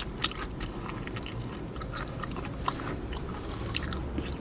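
Close-up eating sounds: chewing and biting food, with scattered small clicks and smacks, over a steady low hum inside a car.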